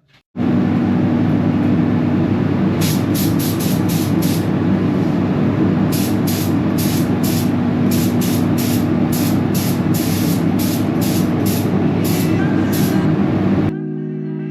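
Compressed-air spray gun hissing in a series of short trigger bursts over a steady running machine noise with a constant hum. It all cuts off suddenly near the end.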